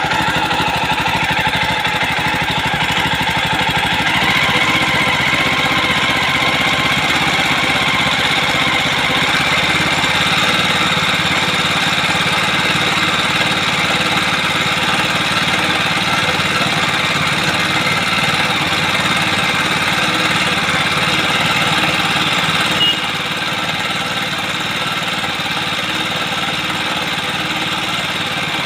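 Jawa 42's single-cylinder engine running steadily, at a near-constant pace with a dense, even firing rhythm; the level drops slightly about 23 seconds in.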